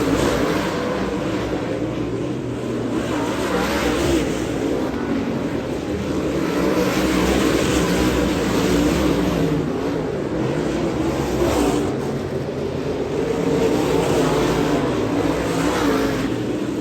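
Dirt modified race car engines running hard around a dirt oval during a heat race, the sound swelling and easing every four to five seconds.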